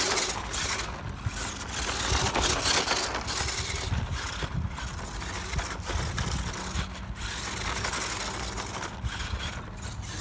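1/12 scale RC pickup truck driving over rough, lumpy field soil: its tyres crunch and rattle over the dirt, with the small electric drive motor running underneath. Its suspension is stiff, which the driver puts down to shocks that are too hard.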